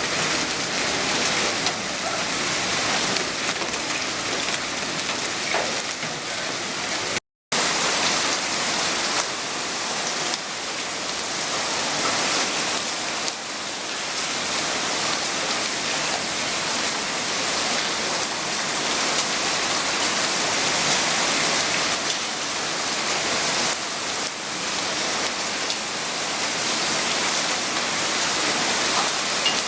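Heavy cloudburst rain pouring down and splashing on surfaces in a steady, dense hiss. It cuts out for a split second about seven seconds in.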